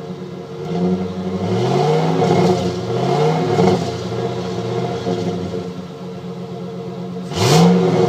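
2007 Chevy Silverado's 5.3-litre V8 through its stock exhaust, heard at the tailpipe: idling between short revs that rise and fall back, with the sharpest and loudest rev near the end.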